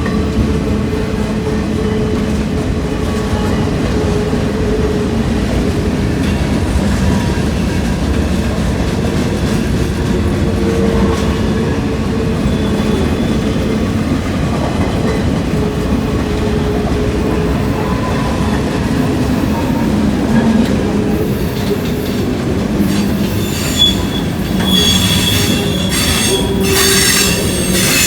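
A train's cars rolling past with a steady rumble of wheels on rail. In the last few seconds high-pitched wheel squeal joins in.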